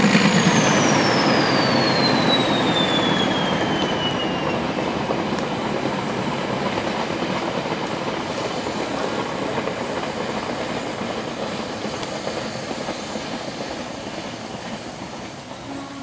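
Metre-gauge train rolling past and away behind an ALCO diesel locomotive, the wagons' wheels clattering over the rails and fading steadily. The locomotive's engine drone drops away in the first second, and a high whine falls steadily in pitch over the first few seconds.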